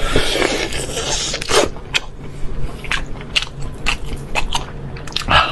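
Biting and chewing of a spice-crusted bone-in beef steak: wet mouth sounds with many short, sharp clicks of teeth tearing at meat on the bone.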